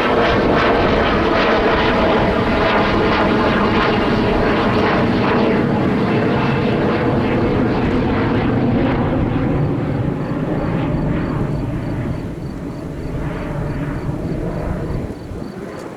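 Airbus A350-1000's Rolls-Royce Trent XWB jet engines at takeoff power: a loud, steady jet roar with a buzzing edge, easing off somewhat about ten seconds in.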